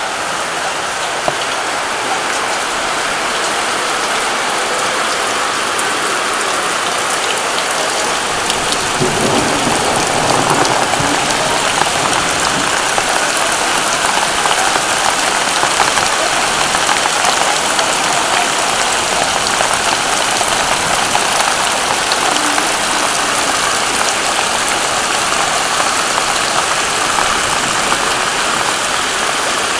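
Heavy rain falling steadily, a dense even hiss of drops on surfaces, growing a little louder about nine seconds in.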